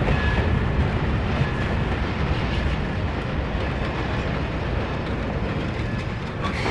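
A deep, noisy rumble that slowly fades, with no distinct pitch or rhythm. A different sound carrying a steady high tone starts right at the end.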